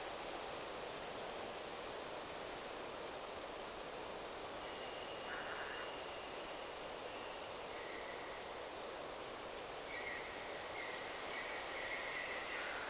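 Wind in forest trees, a steady rustling hiss, with birds giving short high chirps every few seconds and a few longer, drawn-out calls in the second half.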